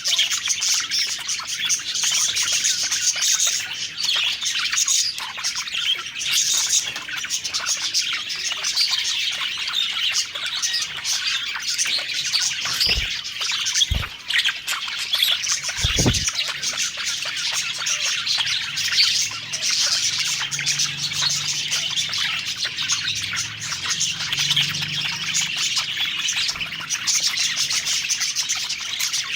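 A flock of budgerigars (parakeets) chattering and chirping continuously, in a dense warbling mix. Three short low thumps come about halfway through.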